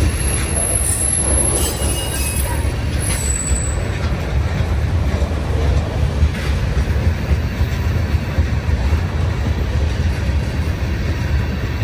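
Freight train rolling past: a steady low rumble, with a few brief high-pitched squeals in the first four seconds.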